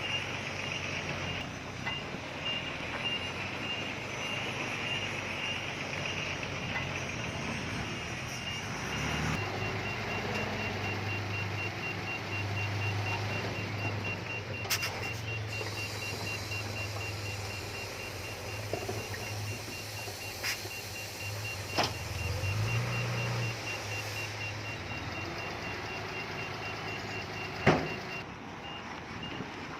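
Heavy diesel earth-moving equipment (bulldozer and dump trucks) working, with a backup alarm beeping quickly and steadily throughout. A deep engine drone swells for the middle part and then drops back, and a few sharp metallic clanks stand out, the loudest near the end.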